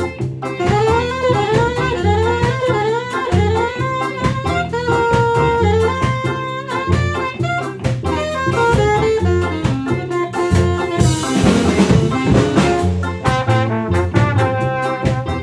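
Ska band playing an instrumental passage, with a saxophone leading the melody over double bass and drum kit. A cymbal crash comes about eleven seconds in.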